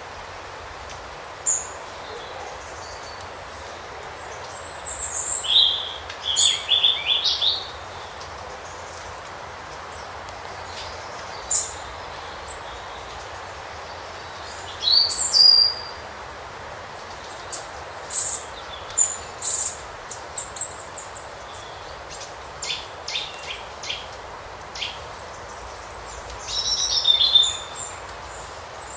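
Wild birds calling: scattered short, high chirps and call notes, some coming in quick clusters, over a steady background hiss.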